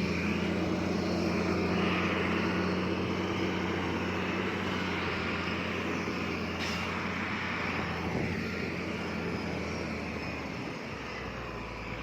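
Heavy earthmoving machine's diesel engine running steadily under work, a constant low drone.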